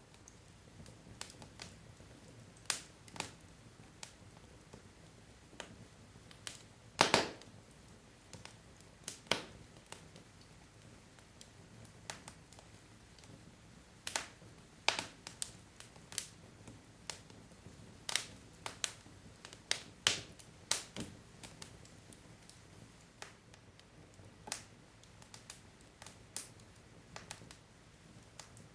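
Wood logs burning in a fireplace, crackling with irregular sharp pops and snaps over a low hiss, a few louder pops about 7 and 20 seconds in.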